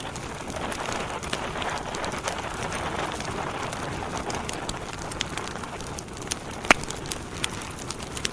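Wood campfire burning: a steady rush of flames with frequent sharp crackles and pops, one of them loud about two-thirds of the way through.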